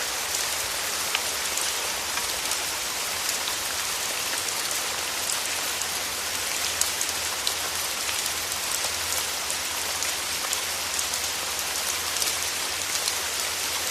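Steady rain falling, a constant hiss with many small drop ticks landing on a surface.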